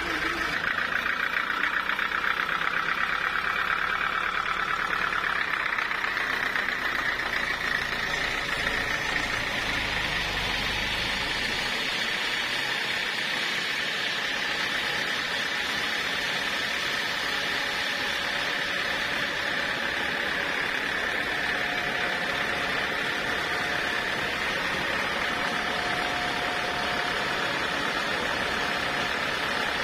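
Portable sawmill running steadily with a continuous machine noise; a low rumble underneath drops away about twelve seconds in.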